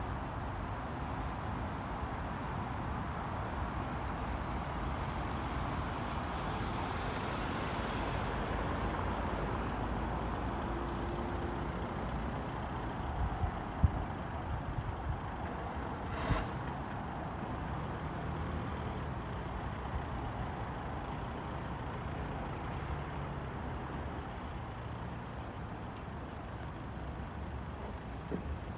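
A train running at a station platform: a steady rumbling noise that swells slightly in the middle, with a couple of sharp knocks about halfway through.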